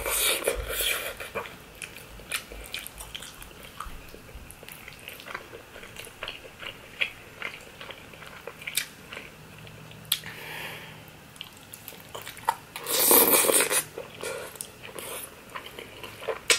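Close-miked wet mouth sounds of a person chewing soft, cheesy lasagna: sticky smacks and clicks, with a louder noisy burst of about a second around thirteen seconds in.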